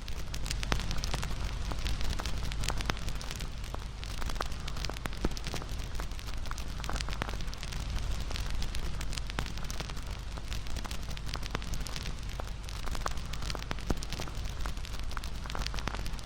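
Wood bonfire burning: a steady low rumble of flames with frequent sharp crackles and pops throughout.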